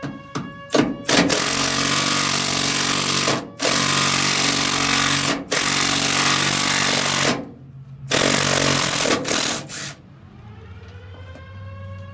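Power tool running hard in long bursts of a couple of seconds each, with brief stops between, over a steady low hum. Near the end it stops and a whine rises, then holds steady.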